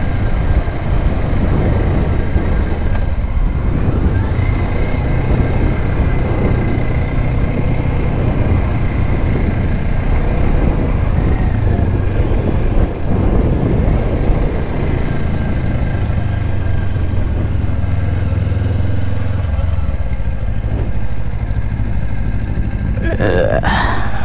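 2024 Kawasaki Ninja 500's parallel-twin engine running steadily under way, with wind and road noise over it. About twenty seconds in the wind noise falls away as the bike slows, leaving the engine running low, and a short rising sound comes near the end.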